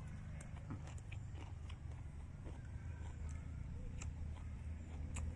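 A person biting and chewing steamed chicken, with scattered small clicks and snaps, over a steady low rumble.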